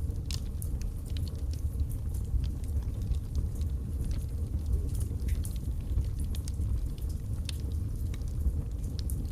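Wood fire burning in a fireplace: irregular crackles and pops of burning logs over a steady low rumble of the flames.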